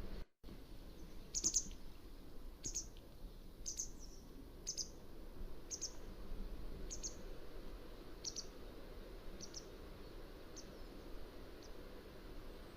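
Mountain wagtail calling: a series of about ten short, sharp, high-pitched calls roughly one a second, growing fainter toward the end, over a steady low background hiss. A brief total dropout in the sound comes just after the start.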